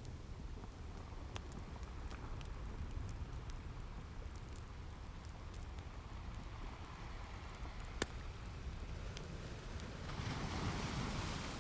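Ocean waves washing in over a low steady rumble, with one wave swelling near the end. Scattered sharp crackles and pops of a wood fire run through it, the loudest about two-thirds of the way in.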